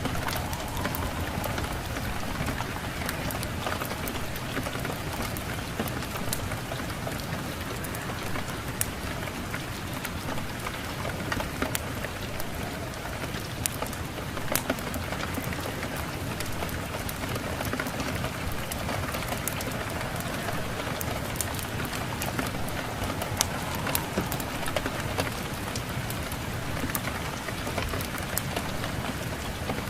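Steady rain falling, with many sharp little clicks scattered through it.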